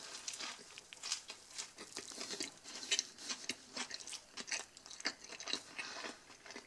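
A person chewing a mouthful of double cheeseburger close to the microphone: soft, irregular wet clicks and smacks of the mouth, several a second.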